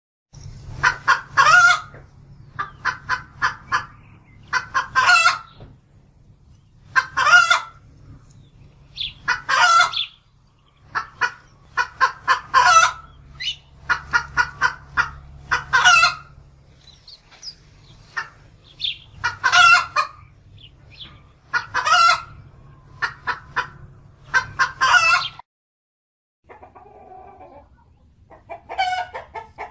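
Chicken clucking and cackling: runs of short clucks, each building to a loud drawn-out squawk, repeated every two to three seconds. Near the end it cuts off briefly and a quieter, different chicken call follows.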